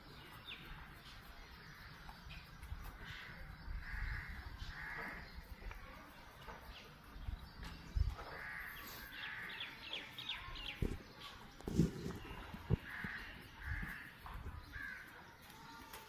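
Birds calling: short calls in twos and threes every few seconds. A few dull thumps come about halfway through and again a few seconds later.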